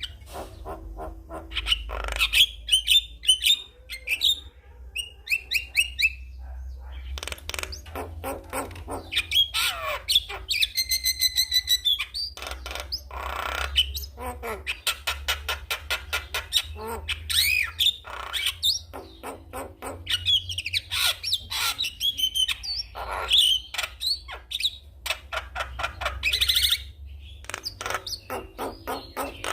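Javan myna (jalak kebo) singing a varied, busy song: rapid runs of clicking chatter mixed with whistles and harsher calls.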